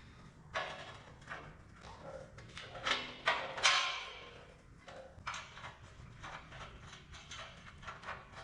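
Steel stops being worked loose and pulled out of a welding-table fixture: irregular metal knocks and scraping slides, loudest about three to four seconds in.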